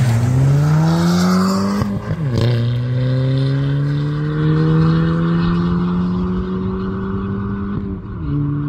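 Car engine under full-throttle acceleration on a drag-race run, its pitch climbing steadily, with a quick drop for a gear change about two seconds in and another near the end.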